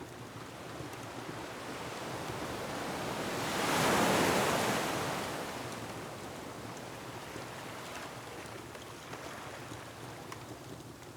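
Ocean wave surging in, breaking about four seconds in and slowly washing back out, with the faint crackle of a wood fireplace.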